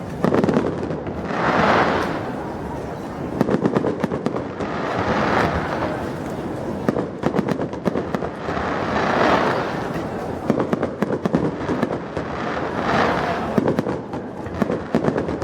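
Fireworks going off in quick succession: many sharp bangs and crackles, over a hiss that swells and fades about every four seconds.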